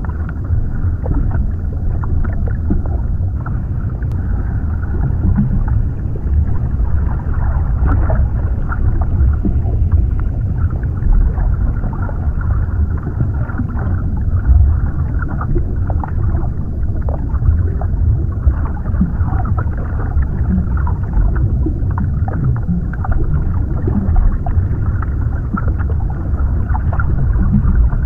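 Underwater ambience: a steady, deep, muffled rumble with small bubbly pops and clicks scattered through it.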